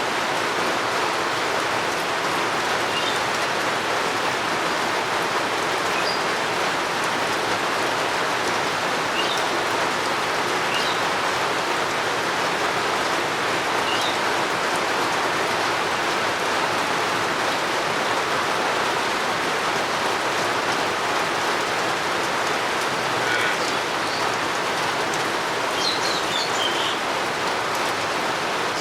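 Steady rain falling, an even hiss, with faint short bird chirps now and then that come a little more often near the end.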